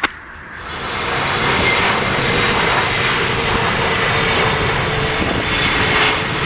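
Airplane passing overhead as it comes in to land: a loud, steady engine roar that builds over the first second and then holds, with a faint whine drifting slightly lower.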